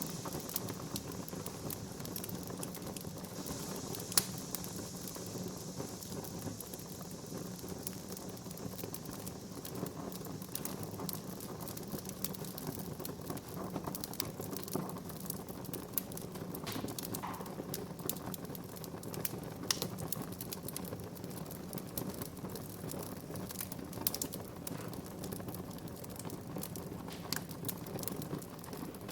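Wood fire crackling in a fireplace: a steady low rush of burning with frequent small snaps and pops, one sharper pop about four seconds in.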